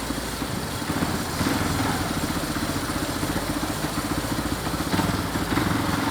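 Motorcycle engine running with a steady pulsing beat, getting a little louder about a second and a half in.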